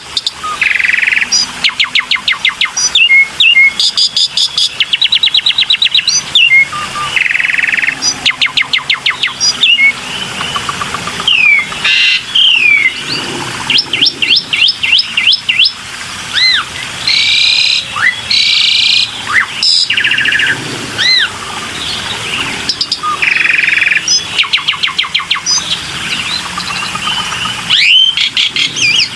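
Black-winged myna (jalak putih) singing a varied, continuous song: rapid trills of repeated notes, slurred whistles and short harsh chattering phrases, one after another.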